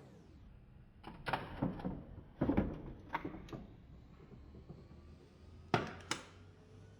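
Light knocks and clatters of household items being handled and set down: a quick run of them in the first few seconds, then two sharper knocks close together near the end.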